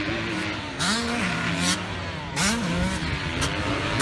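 Motocross bike engine running, revved up twice with quick rises in pitch, about a second in and again around two and a half seconds, settling back between.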